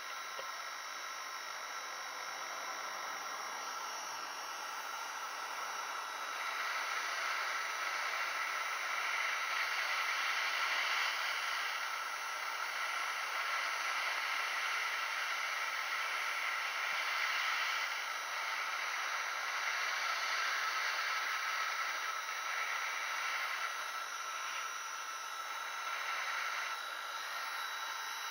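Hot air gun blowing a steady hiss, reflowing the solder under a BGA graphics chip; the hiss grows louder about six seconds in and eases off near the end.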